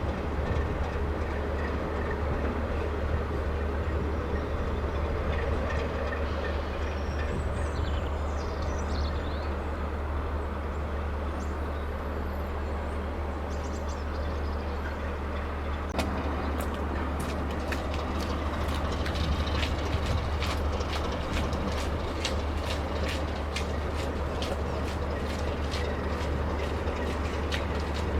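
British Rail Class 33 diesel locomotive running with its train, a steady deep engine hum under the noise of the moving stock. From just past halfway, a regular run of sharp clicks, about two to three a second, sets in.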